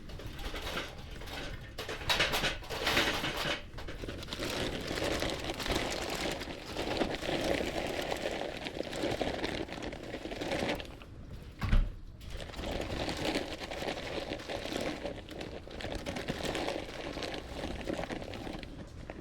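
Wood fire burning with dense, irregular crackling, and one dull thump about twelve seconds in.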